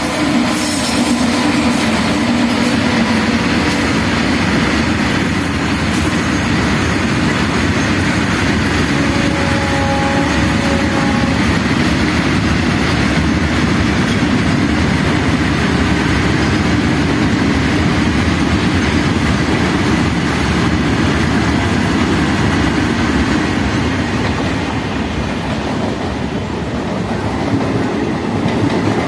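A freight train hauled by two electric locomotives passing close by, followed by a long string of loaded wagons: a steady heavy rumble with the clickety-clack of wheels over rail joints and a faint hum from the locomotives at the start.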